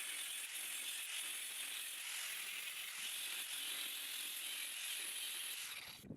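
MIG welder laying a bead on chassis steel: a steady crackling hiss that cuts off suddenly near the end.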